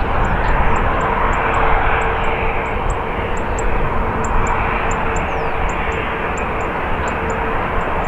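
Jet airliner engines running loud and steady, a broad rumble with a faint held whine. Over it, short high chirps repeat about four times a second.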